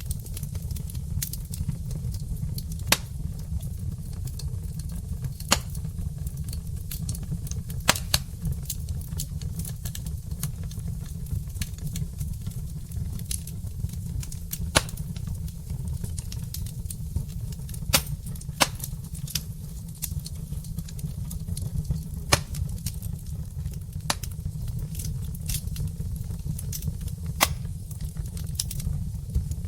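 Wood fire burning in a fireplace: logs crackling, with sharp pops at irregular intervals every second or few seconds over a steady low rumble.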